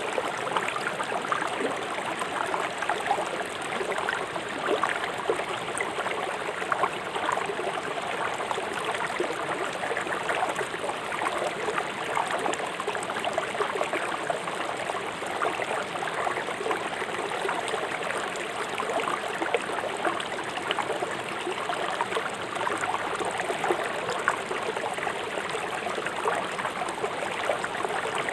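Fast-flowing river rushing over rocks, a steady babbling splash with many small gurgles and no pauses.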